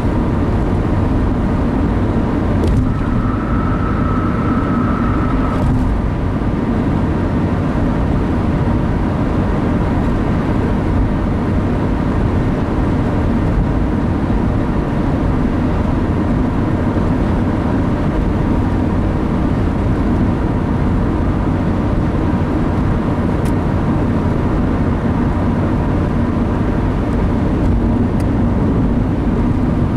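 Steady car road and engine noise heard from inside the cabin while driving at speed, an even low rumble with no change.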